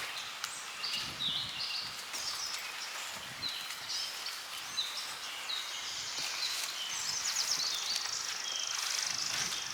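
Wild birds singing and chirping over a steady outdoor background hiss, with many short calls throughout and a buzzy trill in the last few seconds.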